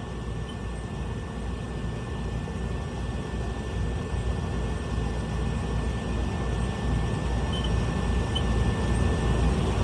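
Small propeller plane's piston engine running at idle, heard from inside the cabin while holding short of the runway, as a steady low drone that slowly grows louder.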